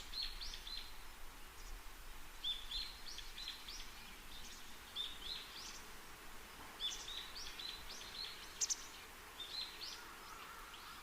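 Faint birds chirping: short repeated chirps, high in pitch, in little clusters, over a soft background hiss.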